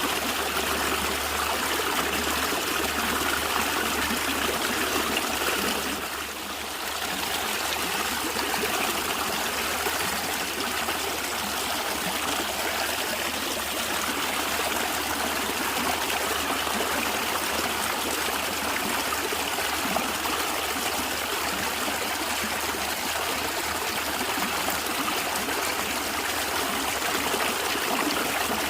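A natural stream running and gurgling steadily over stones, with a constant trickling rush that briefly softens about six seconds in.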